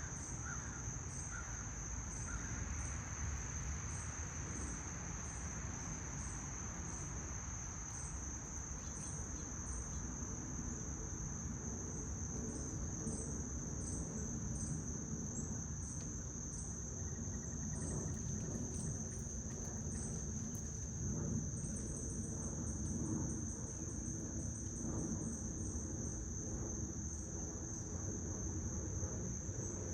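Insects calling outdoors: one unbroken high, steady trill throughout, with a second insect's short pulsed calls repeating a little more than once a second above it. A low steady rumble runs underneath.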